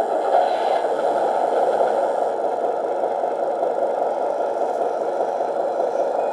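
Simulated truck engine sound from a 1/18-scale RC Tatra truck's onboard sound module, running steadily through its small speaker as the truck drives at low speed.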